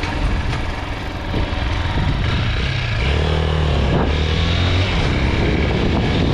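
Chinese 250cc dirt bike's engine running on the road. About three seconds in, its note steadies and gets a little louder.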